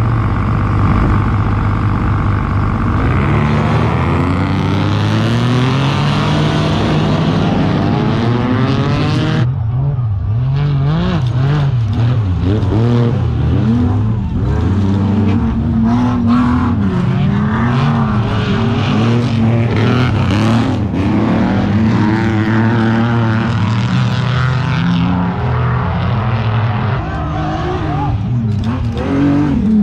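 Off-road race truck engines revving hard, the pitch climbing and falling repeatedly as they accelerate and shift. There is an abrupt change about nine seconds in.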